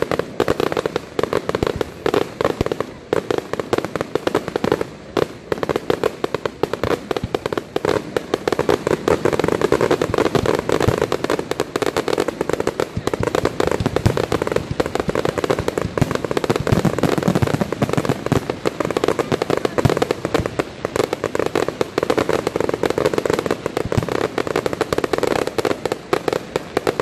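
Fireworks display: a dense, unbroken barrage of bangs and crackling from aerial shells bursting many times a second.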